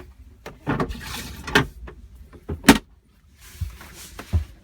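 Clicks and knocks of the plastic parts of a swivel Thetford cassette toilet being worked by hand, with a short rushing noise about a second in and one sharp click near the middle.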